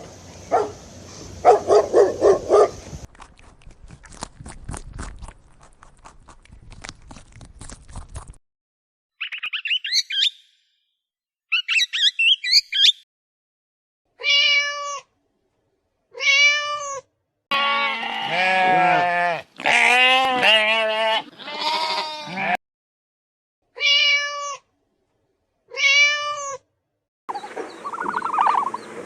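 A string of short animal calls with silent gaps between them. Among them is a domestic cat meowing four separate times, each meow short and arched in pitch.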